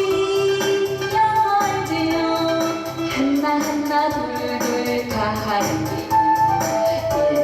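Korean trot song: a woman singing a melody with long held notes over a backing track with a steady beat.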